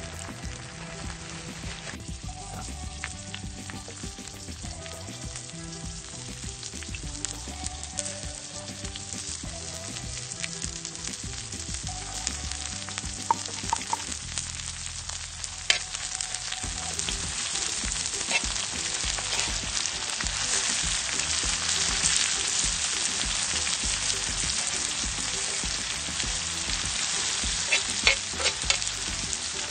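Scorpions and chilies stir-frying in hot oil in a large pan: a steady sizzle that grows louder about halfway through, with a few sharp taps of the spatula against the pan.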